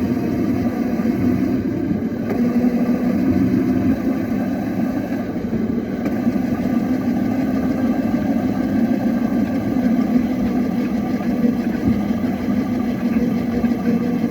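Toy motorbike's built-in engine sound effect playing through its speaker: a steady idling engine hum with a constant low tone and no revving.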